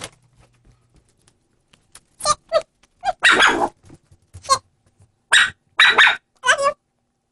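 A dog making a run of short barks and whiny vocal calls that bend in pitch, starting about two seconds in.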